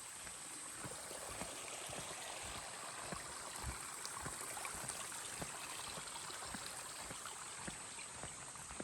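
Steady wash of a rushing mountain stream, with irregular light footsteps on the trail over it.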